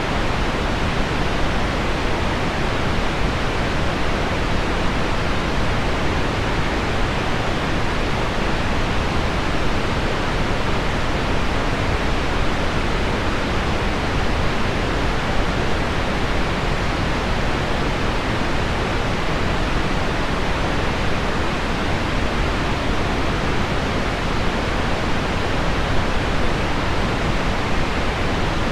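Heavy rain on window glass blended with low pink noise: a steady, even, deep hiss with no single drops standing out.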